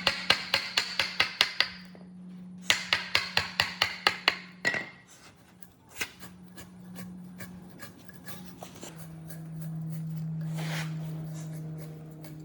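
Two quick runs of hammer blows on wood, about five sharp strikes a second, each run lasting about two seconds. A few lighter knocks follow, and then a steady low hum for the rest.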